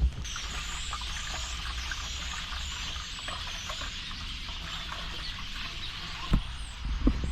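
A large flock of birds chattering, many overlapping high chirps and squeaks in a steady din. A couple of brief thumps come near the end.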